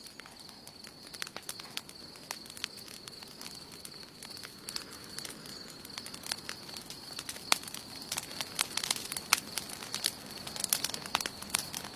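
Wood campfire burning, crackling with irregular sharp pops over a soft hiss, the pops coming thicker in the second half. A steady faint high-pitched whine runs underneath.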